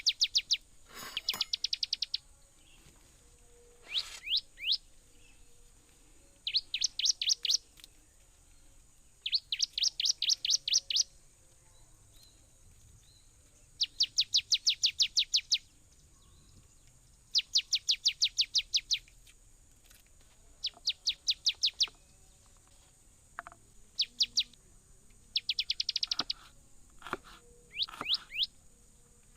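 A songbird singing: repeated bursts of rapid, sharply falling high notes, each burst lasting one to two seconds and coming every few seconds.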